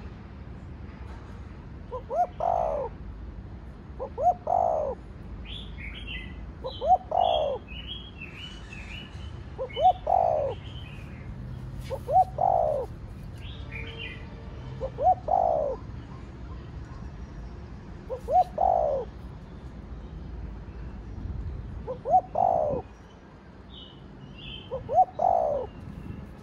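Spotted dove cooing: the same phrase, two short notes and then a longer one, repeated nine times about every three seconds. Small birds chirp faintly in the background through the middle.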